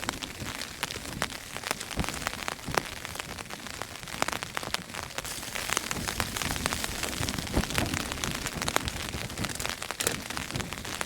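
Heavy rain drumming on the fabric of a Hilleberg tent, heard from inside: a dense patter of many sharp drop impacts. Wind swells a little louder from about halfway through.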